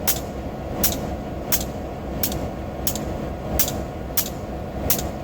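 Freight train rolling by with a steady rumble, its wheels clicking sharply over rail joints about every two-thirds of a second.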